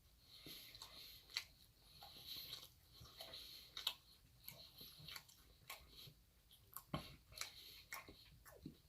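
Quiet, close-up chewing and mouth sounds of a person eating, with scattered short, sharp wet clicks.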